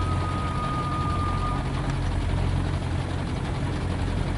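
Hino 500 FM320TI truck's diesel engine running steadily, heard from inside the cab. A thin, high steady whine sounds over it and fades out about a second and a half in.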